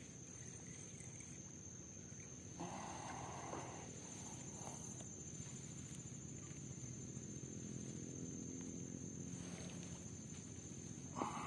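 Insects droning in a steady high-pitched tone, with a brief rustling noise about two and a half seconds in.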